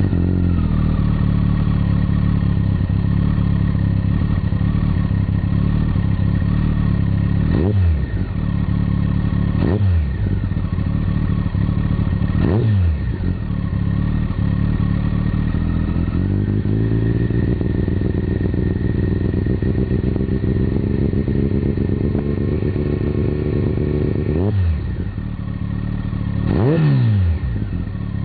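Kawasaki ZZR1400's inline-four idling loud through a Techserfu ZEEX-R dual exhaust with the baffles removed, a deep bass note. Five short throttle blips, each rev rising and falling back quickly, and for several seconds past the middle the revs are held slightly above idle.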